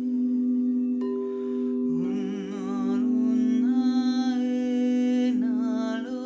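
Crystal singing bowls sounding a steady, sustained drone, with a wordless voice humming and singing long held notes over it that step up and down in pitch.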